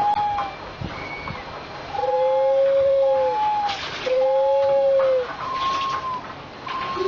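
Bird calls from a pipe sound installation: a string of clear whistled notes at several pitches, each a fraction of a second to over a second long and arching gently up then down, overlapping one another. Short hissy, chattering bursts come between the notes, the loudest about halfway through.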